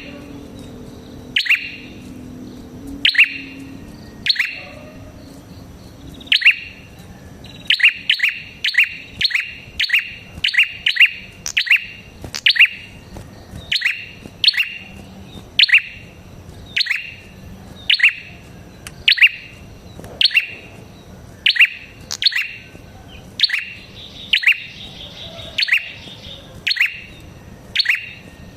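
Prenjak kepala merah (prinia-type songbird) calling: a long series of short, sharp chirps, each falling in pitch, about one or two a second, bunching into quicker runs for a few seconds now and then.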